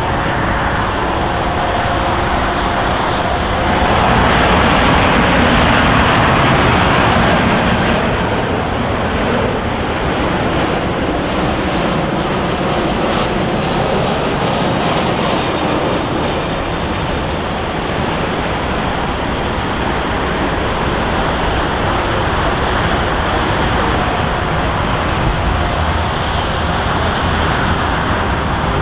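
Airliner jet engines heard from the ground, a loud, steady sound. About four seconds in it changes to a Lufthansa Airbus A340-300 with its four engines.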